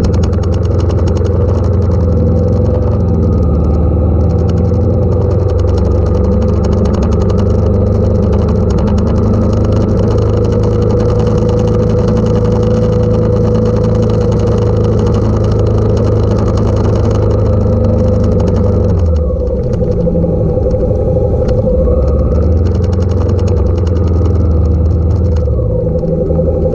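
Motorcycle engine running steadily under way. Its note drops about nineteen seconds in and picks up again a couple of seconds later.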